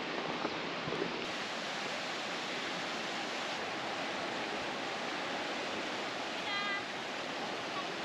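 Steady, even rush of fast-flowing water. About six and a half seconds in, a short high call sounds over it.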